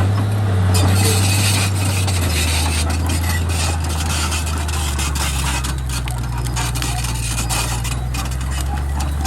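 Komatsu D31P bulldozer's diesel engine running under load with a deep steady drone, its note dropping lower about two seconds in, with scraping and clattering from the blade and tracks over it.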